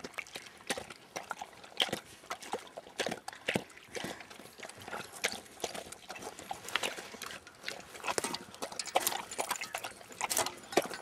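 Sled dogs' paws crunching on packed snow as the team runs, a quick irregular patter of many footfalls.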